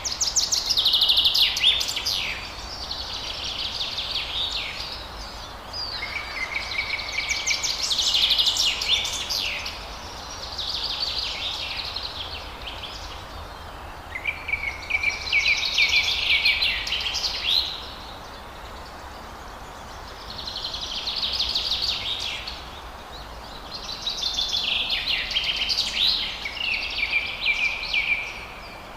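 Songbirds singing: phrases of rapid chattering notes and trills, each about two to three seconds long, following one another with short pauses, over a faint steady background hiss.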